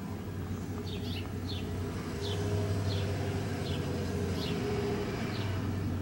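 A small bird chirping repeatedly: short, high, falling chirps about twice a second, over a steady low hum.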